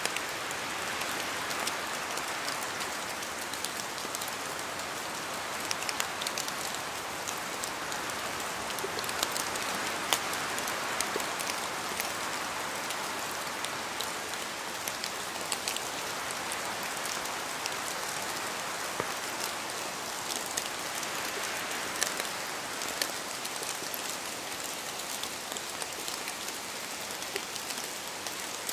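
Steady rain falling on a surface, with many individual drops tapping distinctly over the even hiss.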